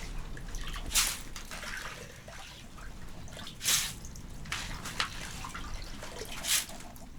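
Water splashing and dripping, with three louder splashes about a second, three and a half and six and a half seconds in, and small drips between them.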